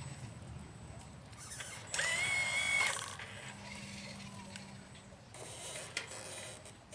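Motor of a 1/12-scale RC excavator whining up briefly about two seconds in, holding for about a second before stopping, over faint low mechanical noise.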